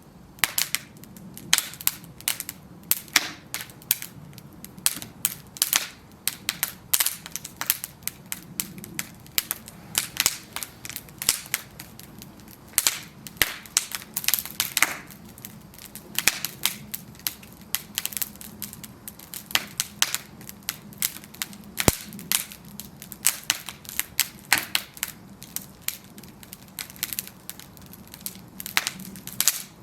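Bonfire of burning wooden planks crackling, with frequent sharp irregular pops and snaps over a soft low rumble of the flames.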